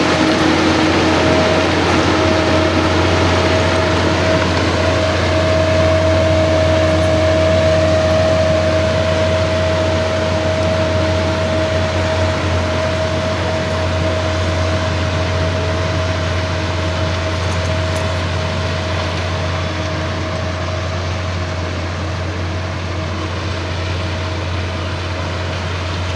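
Diesel engine of a railway ballast regulator running steadily, a low drone with a steady whine over it, slowly getting quieter through the second half.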